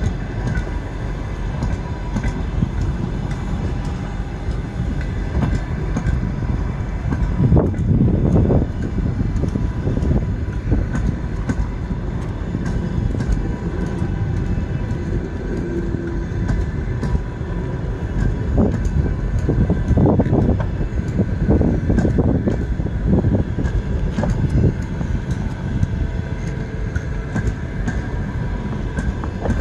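Passenger train running along the tracks, with a steady rumble of wheels and wagons, scattered wheel clicks and faint steady tones above it.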